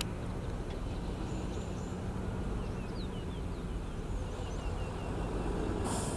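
Heavy road-building machine's diesel engine running steadily with a low rumble, while small birds chirp over it. A brief hiss near the end.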